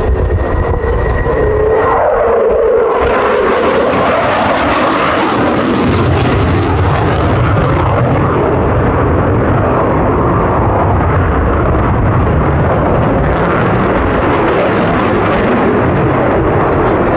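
Jet noise from a JASDF F-15J fighter's twin turbofan engines as it flies by. A whine glides down in pitch over the first few seconds, then gives way to a loud, steady rush of engine noise.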